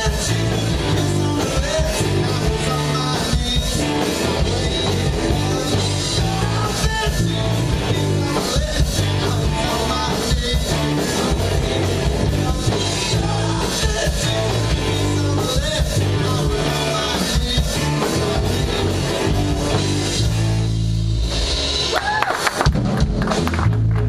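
Live rock band playing an instrumental passage with electric guitar, bass and drum kit, loud and steady, with a short dip about three-quarters of the way through.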